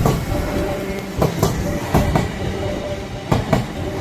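Train rolling through the station, its wheels clicking over rail joints in pairs about once a second, over a steady rumble and hum.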